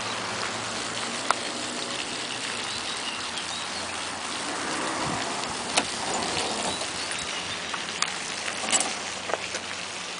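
A few sharp clicks and clunks from the trunk lid of a 1957 Ford Thunderbird being unlatched and opened, over a steady hiss of outdoor background noise.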